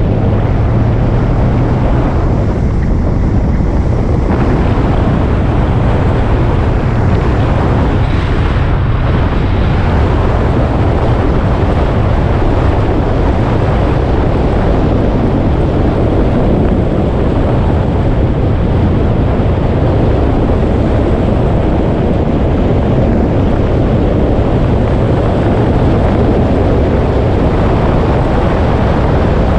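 Motorcycle engine running steadily while riding, its low drone mixed with heavy wind rushing over the microphone.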